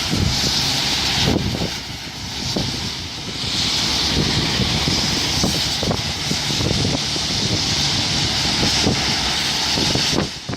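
Heavy rain falling in a steady, dense hiss, with wind buffeting the microphone in rough low rumbles.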